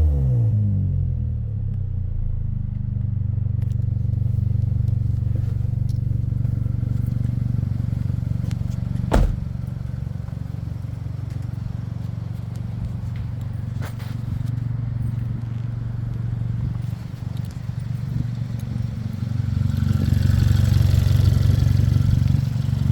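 Hyundai i40's 2.0-litre petrol four-cylinder engine settling back from a rev to a steady idle. A sharp click sounds about nine seconds in, and the engine grows louder near the end.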